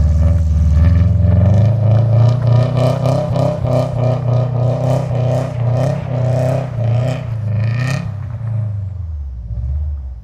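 Turbocharged flat-four engine of a 2005 Subaru WRX running at high revs with an uneven pulsing, as the car spins its bald summer tyres on snow; it fades down near the end.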